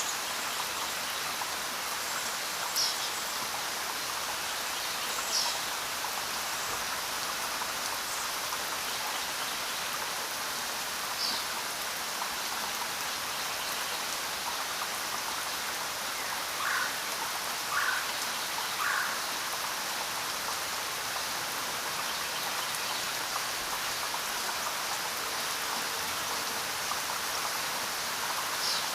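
Steady rain falling. A few short chirps stand out: single high ones now and then, and three lower ones about a second apart midway.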